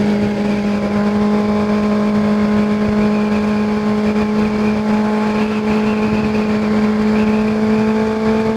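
Kawasaki ZX-6R 636's inline-four engine running at steady revs while riding, with wind rush over it; the pitch creeps up slightly near the end.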